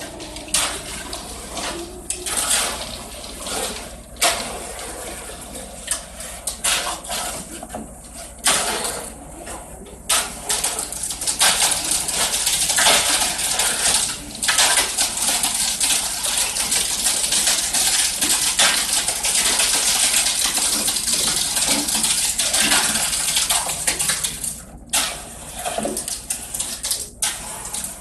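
Wet concrete being poured into a foundation form and worked with metal tools: sloshing and scraping, intermittent at first, then a steadier rush of pouring for about a quarter of a minute before it breaks up again.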